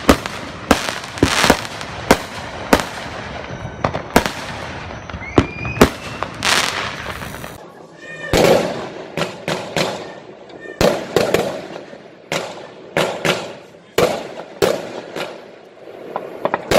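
Aerial fireworks bursting: a rapid, irregular string of sharp bangs and crackles, with a short lull about halfway through before the bangs pick up again.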